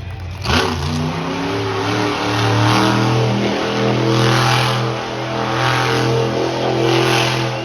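Monster truck engine revving hard. The pitch climbs about a second in, then holds at high revs with several throttle surges.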